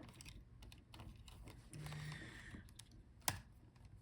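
Faint small plastic clicks and taps of fingers and a tool working a laptop's ribbon-cable connector, freeing the I/O board's cable from the motherboard, with one sharper click about three seconds in.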